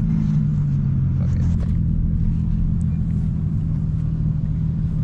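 Infiniti G35's 3.5-litre V6 running steadily through an exhaust with the muffler and resonator deleted, a constant low drone and rumble as the car drives.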